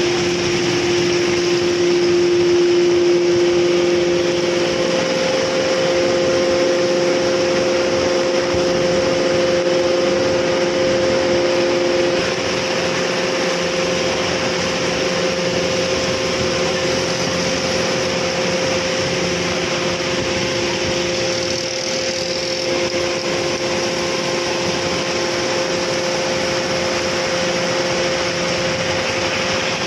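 A steady motor hum over a loud, even hiss, its pitch shifting slightly a couple of times.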